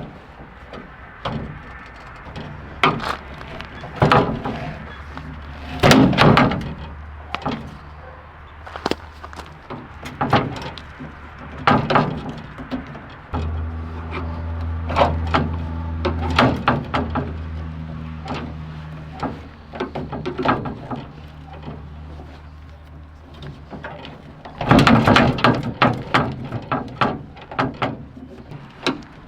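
Irregular metal clanks, knocks and rattles of tools and parts during the teardown of an old pickup truck, with a steady low hum for several seconds in the middle and a quick flurry of knocks near the end.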